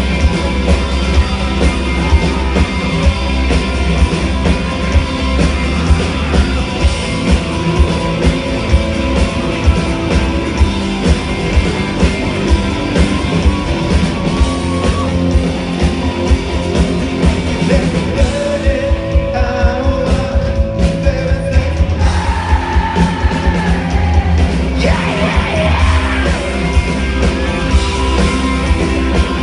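Live rock band playing loudly through a passage without lyrics, with a steady drum beat and voices singing and shouting over it.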